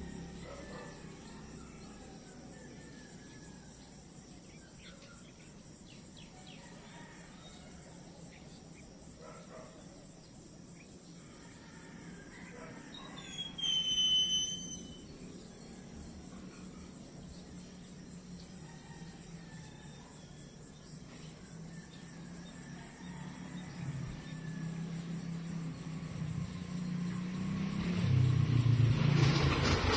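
Outdoor nature ambience: insects, likely crickets, trill steadily at a high pitch, with faint scattered chirps and one louder, clear-toned call about halfway through. In the last few seconds a vehicle's engine noise grows steadily louder as it approaches.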